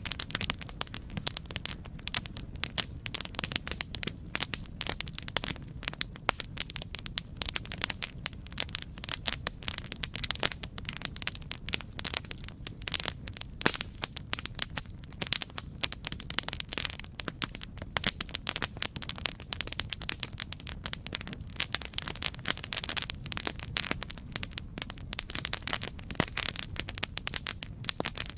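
Campfire crackling: a dense run of irregular sharp pops and snaps over a steady low rumble of burning.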